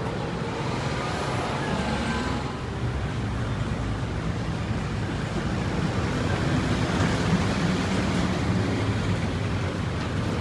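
City street traffic: vehicle engines running with a steady low hum over a wash of tyre and road noise.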